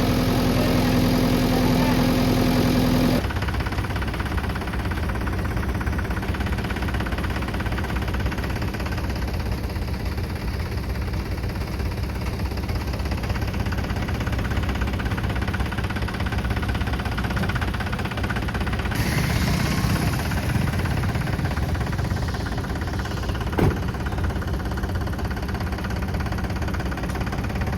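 Diesel engine of heavy earth-moving machinery running steadily. The sound changes abruptly about three seconds in, and one sharp knock comes late on.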